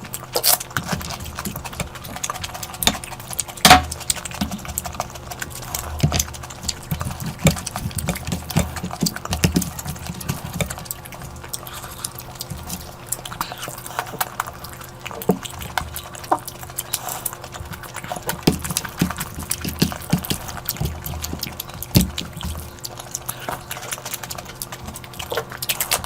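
A person eating curry with loud wet mouth sounds: irregular smacking, chewing and slurping clicks.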